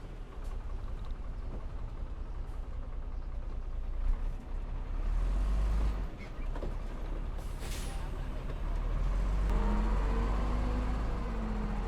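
Heavy diesel earthmoving machinery running, with a short burst of hiss like air being released just past the middle. About two-thirds of the way through the engine note gets louder and wavers in pitch under load, then eases.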